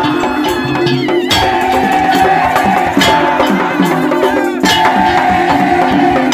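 Madurese tong-tong (ul daul) ensemble playing: a busy beat of wooden and bamboo slit drums and drums under steady melodic notes, with a quick sliding tone about a second in and again near the middle.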